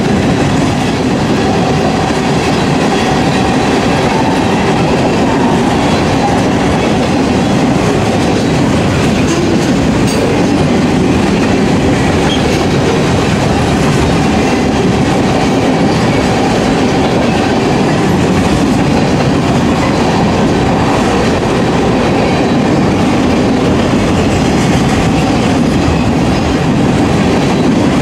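Mixed freight cars of a manifest freight train, tank cars and boxcars, rolling steadily past at trackside: loud, continuous noise of steel wheels running on the rails.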